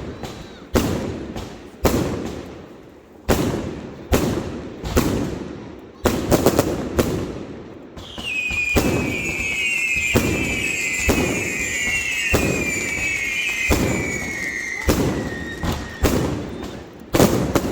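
Fireworks going off in a string of sharp bangs about once a second. From about eight seconds in, a cluster of shrill whistles joins them, sliding slowly down in pitch for about eight seconds before stopping.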